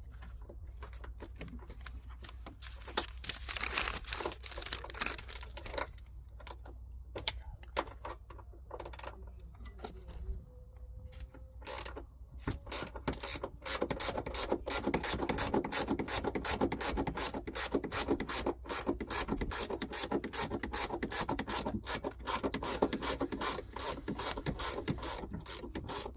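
Hand ratchet clicking in rapid runs, as when unbolting parts, growing denser about halfway through, over a low steady hum.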